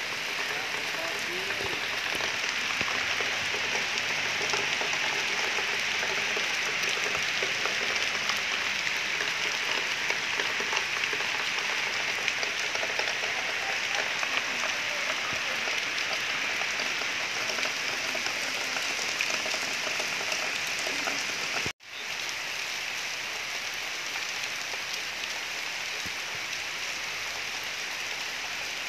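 Steady rain pouring down on stone paving and forest leaves: an even hiss that cuts out for an instant about two-thirds of the way through, then carries on slightly quieter.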